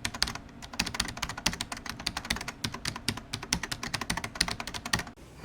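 Typing on a computer keyboard: rapid, irregular keystroke clicks, several a second, which stop shortly before the end.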